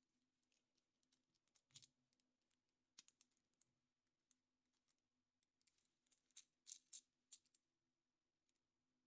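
Faint, scattered small clicks and crackles from hands handling a surprise egg's foil wrapper, plastic capsule and small toy parts, in a few quick clusters, over a faint steady hum.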